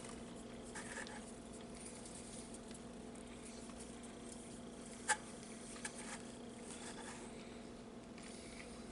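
Quiet room tone with a steady low hum, broken by a few faint small clicks and rustles and one sharper click about five seconds in.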